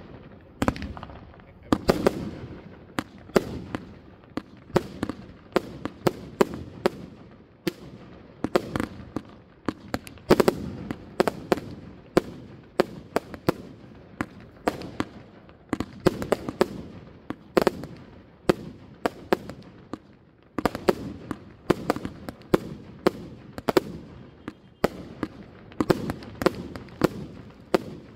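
Aerial fireworks bursting overhead in a continuous string of sharp bangs, a couple or more a second, with louder reports every second or so.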